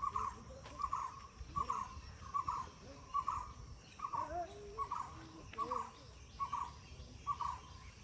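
A bird repeating a short hooting note at an even pace, a little more than once a second, with fainter sliding calls of other birds beneath it.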